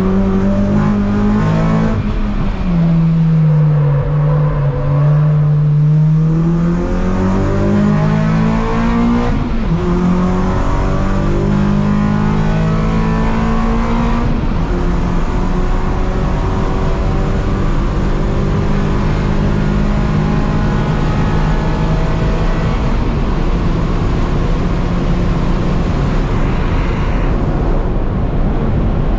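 Honda Accord Euro race car's K24 four-cylinder engine, heard from inside the cabin while lapping a circuit. The engine note drops about two seconds in as the car slows, climbs back up over the next few seconds, then holds high and steady at speed.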